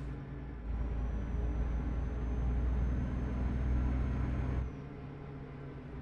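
Truck's diesel engine heard from inside the cab. About a second in the engine grows louder under load, with a faint high whine rising slightly, then it drops back near the end.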